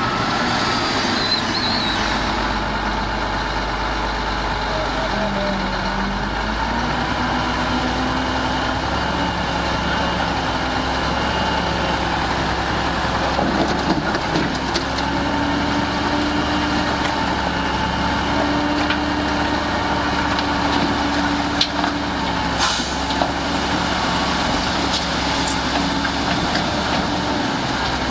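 Heavy diesel machinery, dump trucks and a bulldozer, running steadily, with engine tones shifting in pitch now and then. A brief hiss comes about 23 s in.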